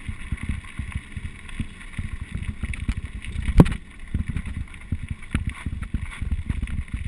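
Rumble and rattle of a mountain bike running over a rough trail, with wind buffeting the microphone and one sharp knock about three and a half seconds in.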